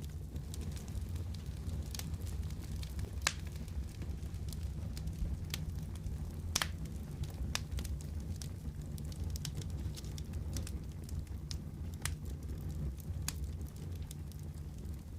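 Wood fire burning in a fireplace: a steady low rumble of the flames with scattered sharp crackles and pops, the loudest about three and six and a half seconds in.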